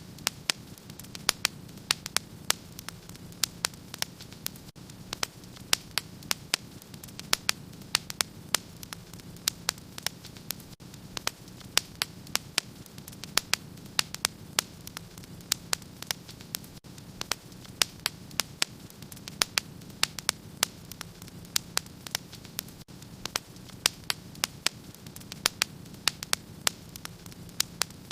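Wood fire crackling in a fireplace: frequent sharp, irregular pops and snaps, several a second, over a steady low hum.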